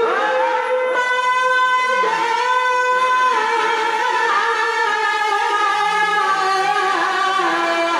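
A qari reciting the Quran in melodic tilawah style, holding one long high-pitched phrase that slowly sinks in pitch, with small wavering ornaments.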